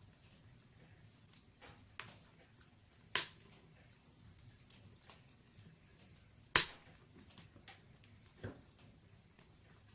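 Burning firewood crackling in a fireplace: irregular sharp pops and small ticks, with two louder snaps about three and six and a half seconds in.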